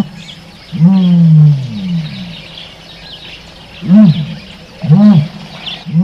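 Animal calls: a low pitched call repeated five times, some short and rising-then-falling, two longer and falling in pitch, over steady high chirping.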